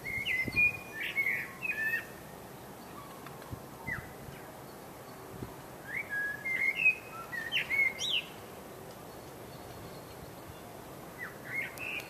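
A songbird singing a few short phrases of quick, sliding whistled notes, with pauses of a few seconds between phrases.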